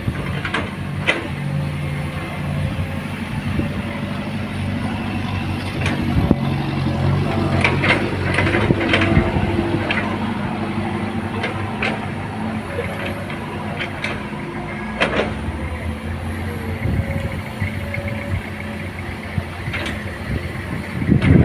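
Heavy truck engine running steadily at low revs, with scattered sharp clicks and knocks.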